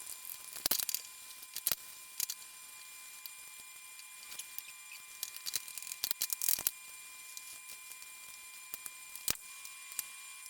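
Light rustling and scattered soft clicks and knocks as an oiled birch-wood cutting board is handled and wiped with a cloth.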